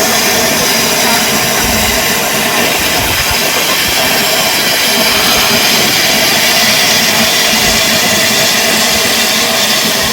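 Steam locomotive letting off steam: a loud, steady hiss that starts suddenly and holds for about ten seconds.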